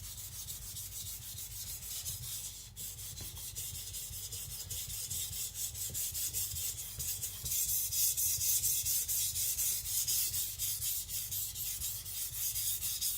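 Tojiro shirogami nakiri blade stroked back and forth on a Naniwa Professional water stone: a rhythmic wet scraping of steel on stone, getting louder from about halfway through. The edge is being worked toward a burr.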